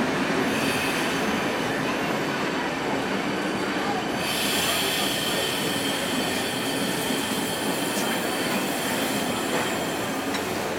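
Steam train rolling on the rails with a steady rumble, joined about four seconds in by a high, steady wheel squeal that holds to the end.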